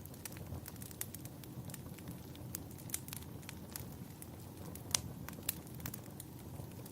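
Wood fire burning in a fireplace: a steady low rumble under scattered sharp crackles and pops, the loudest pop about five seconds in.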